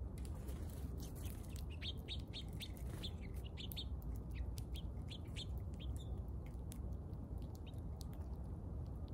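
Small birds chirping: a quick run of short, high chirps through the middle of the stretch, over a steady low rumble.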